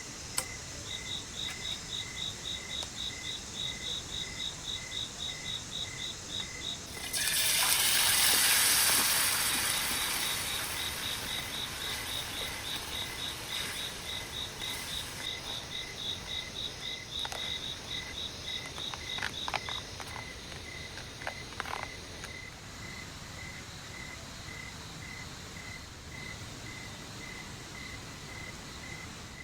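Forest insects chirping in two steady pulsing rhythms: a slower chirp about three times a second, and a faster higher one that stops about twenty seconds in. About seven seconds in, a loud rushing hiss comes up suddenly and fades away slowly.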